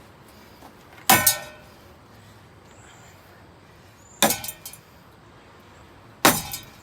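Three sharp impacts about three seconds apart, each followed by a short clattering ring: thrown objects striking the blades of a running ceiling fan.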